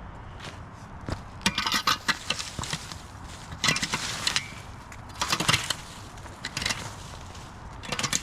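Twigs and dry brush crackling and snapping in several short bursts, like woody debris being crushed and handled.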